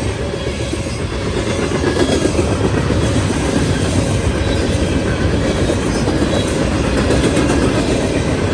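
A train rolling past, its wheels rumbling steadily on the rails with a clickety-clack over the rail joints.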